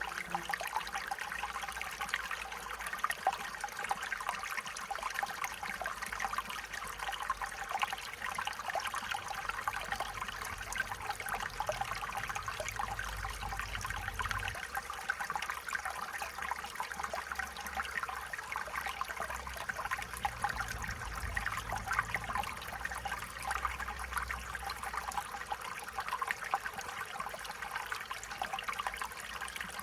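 Stream water trickling and babbling over stones, a steady bright burble without break.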